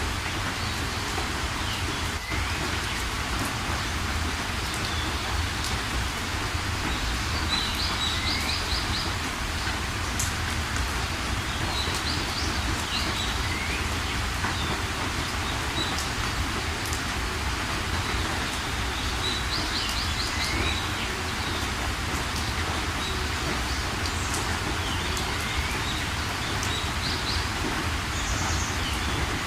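Steady rain falling, with birds calling now and then above it: short rapid trills and brief rising whistled notes every few seconds.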